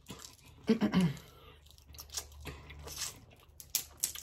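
Close-miked chewing and wet mouth sounds from eating snow crab meat, with a few sharp clicks near the end. About a second in there is a short low 'mm' that falls in pitch.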